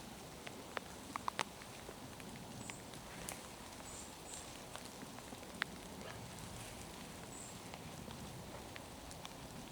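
Steady patter of rain in a forest, with scattered sharp drips and ticks of drops landing close by. A few faint, very high, short double chirps come through now and then.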